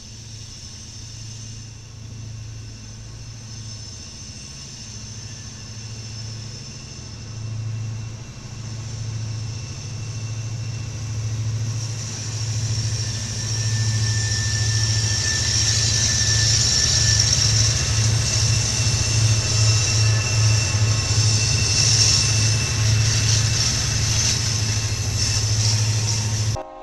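Diesel freight train growing louder as it approaches and runs past: a steady low locomotive engine hum that pulses faster over time, joined from about halfway by rising rail and wheel noise with thin high squealing tones. It stops abruptly at the end.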